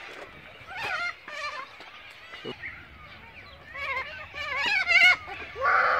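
Waterfowl calling: a series of wavering, bleating calls. The loudest come just before the end, and the last one slides down in pitch.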